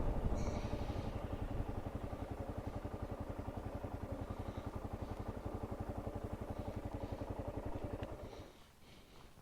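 Kawasaki KLR 650's single-cylinder engine idling with an even, rapid beat, then shut off about eight seconds in.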